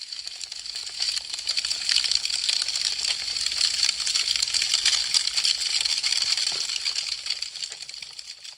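Wood fire crackling, a dense stream of small sharp pops and snaps. It swells up from silence, stays busy through the middle and fades away near the end.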